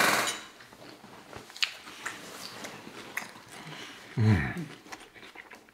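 Close-up chewing and mouth clicks of people eating salad, with a short noisy crunch right at the start and a brief hummed "mm" about four seconds in.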